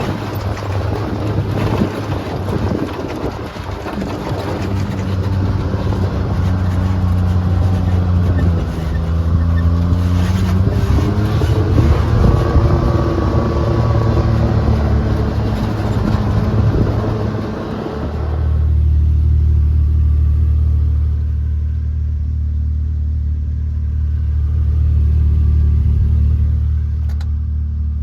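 Can-Am Maverick X3 Max side-by-side's turbocharged three-cylinder engine driving under load, its revs rising and falling with rough mechanical noise. About two-thirds of the way through the rough noise drops away suddenly, leaving a steady low engine drone.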